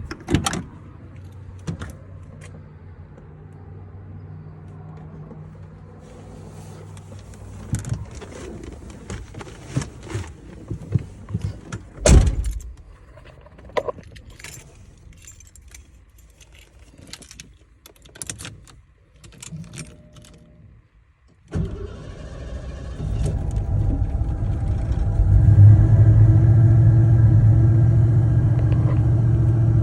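Jingling keys, clicks and thumps, with one loud thump about 12 seconds in. About 21 seconds in, the 1989 Ford Bronco's engine cranks and starts right up without any throttle on a cold start after sitting about a week. It then settles into a steady idle.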